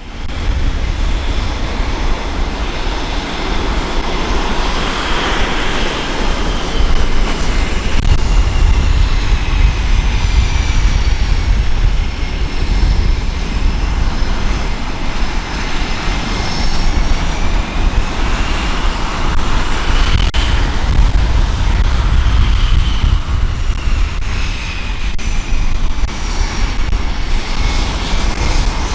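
Fighter jet engines running loud, a deep rumble with a high turbine whine that slides slowly down and back up.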